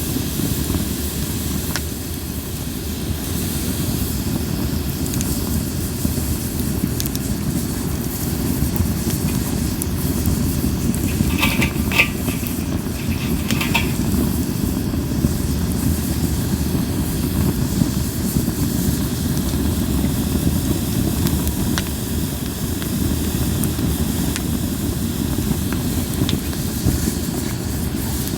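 Linden-wood campfire burning, with scattered small crackles over a steady low rumble. About twelve seconds in, a brief high whistling hiss, like steam escaping from the burning wood.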